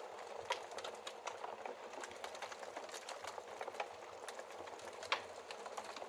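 Wood fire crackling in a fireplace: a steady hiss of burning logs under frequent irregular snaps and pops, with one sharper pop about five seconds in.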